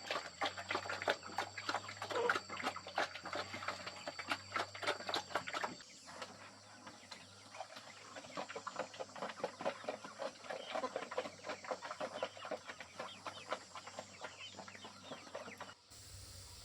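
Chickens clucking, a dense run of many short calls a second, which changes abruptly twice.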